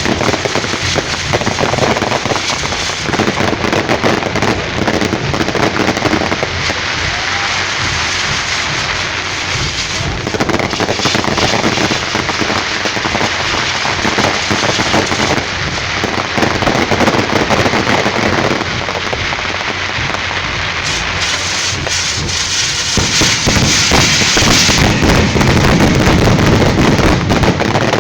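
A barrage of firecrackers and fireworks going off, a dense, unbroken crackle of rapid bangs with no let-up.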